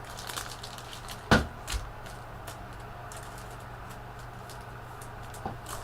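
Trading cards being handled on a table: a sharp knock about a second in, then a softer one, with scattered light clicks and rustles and another small knock near the end, over a steady low hum.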